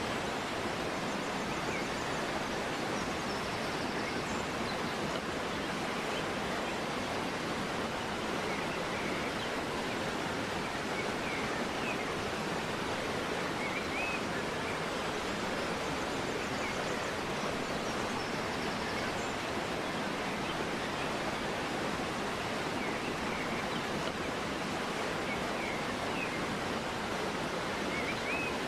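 Steady rush of a flowing river, with faint short bird chirps every few seconds.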